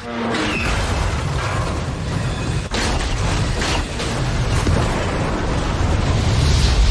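Film war-scene sound: a deep, continuous rumble of explosions with a few sharp cracks about three seconds in, swelling louder near the end.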